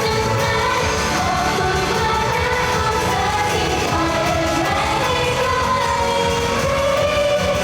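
Pop song played live over a PA sound system, with singing over a loud, steady backing track.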